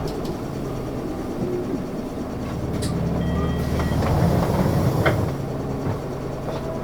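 Isuzu Erga city bus under way, heard from inside the cabin: a steady engine drone that swells about two seconds in, then eases off a little after five seconds, with a few light clicks and rattles.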